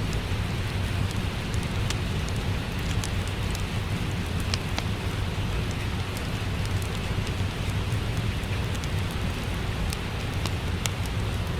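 Steady rain falling, with a low rumble beneath it and scattered sharp crackles and pops from a wood fire in a fireplace.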